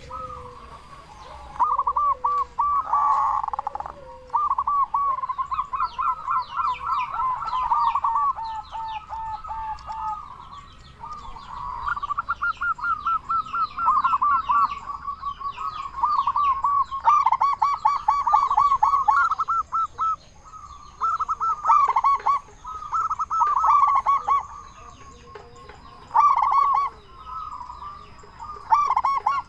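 Zebra dove (perkutut) cooing: bout after bout of quick, stuttering coo notes, each phrase lasting a second or two with short pauses between.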